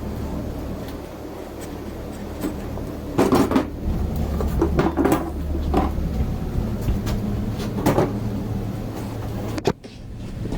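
A series of irregular knocks and clatters over a steady low hum.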